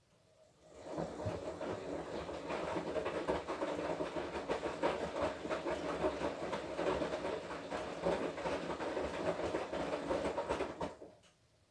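Washing machine drum turning during the wash cycle, with the laundry and water tumbling inside as a dense rattling, sloshing noise. It starts about a second in and stops shortly before the end.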